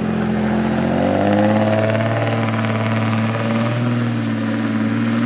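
1993 Ford Ranger's engine through a straight-piped exhaust with the muffler deleted, revving up over about the first second and a half and then held at high revs.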